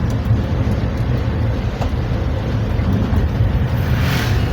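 Steady low engine and road rumble of a vehicle being ridden in. About four seconds in, a brief rush of hiss rises over it.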